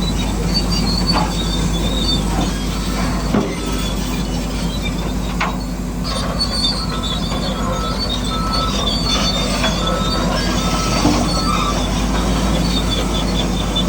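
Electric motors and gearboxes of radio-controlled model construction machines running, with a steady hum, high thin whines that come and go, and a few short clicks and knocks.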